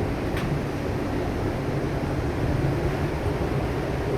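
Steady rumble and hum inside a moving Amtrak Southwest Chief passenger car as it runs along the track, with a faint click about half a second in.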